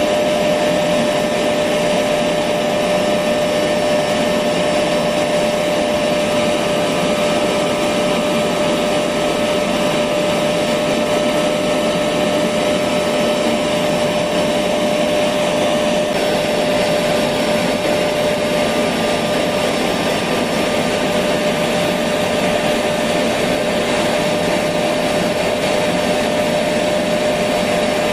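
Electric vacuum cleaner running steadily: a constant rushing noise with one clear steady pitch through it.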